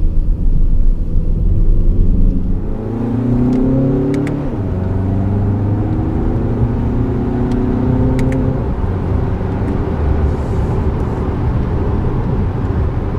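2016 Skoda Superb 2.0 TDI's four-cylinder turbodiesel engine heard from inside the cabin as the car accelerates. The engine note climbs in pitch, drops at a gear change about four seconds in, then climbs again before settling.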